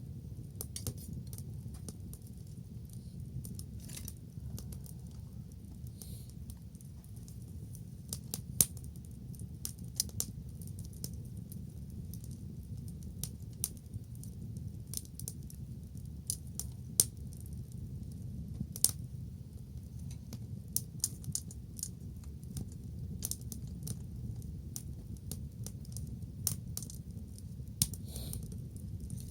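Wood bonfire crackling: irregular sharp snaps and pops, a few louder ones, over a steady low rumble.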